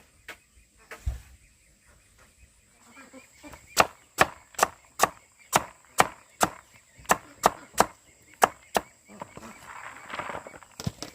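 Steady chopping: a dozen or so sharp strikes, about two and a half a second, after a single heavier thump about a second in.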